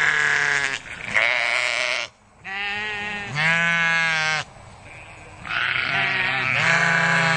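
Sheep bleating repeatedly: about six calls in a row, with short gaps between them.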